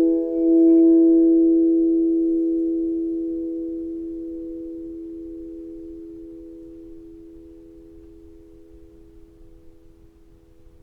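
Singing bowl ringing: a few steady, pure tones swell just under a second in, then slowly fade away.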